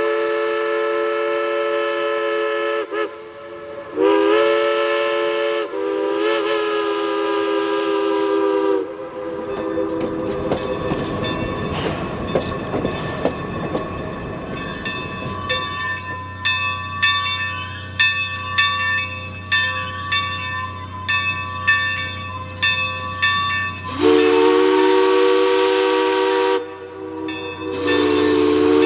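Climax geared steam locomotive sounding its chime whistle: two long blasts, then a stretch of steam hiss and exhaust beating out a steady rhythm at about two strokes a second, then the whistle again, a shorter blast and a long one near the end.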